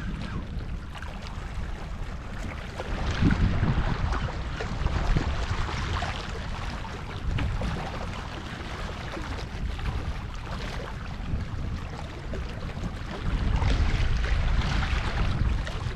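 Wind buffeting the microphone in gusts, stronger about three seconds in and again near the end, over the steady wash of sea surf.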